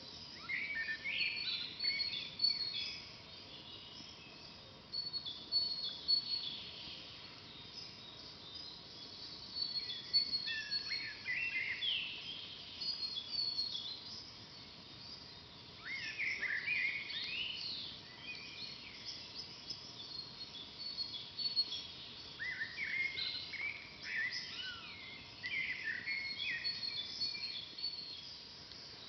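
Forest songbirds singing: a bird repeats short song phrases every few seconds, dropping in pitch, over a steady series of thin high chirps.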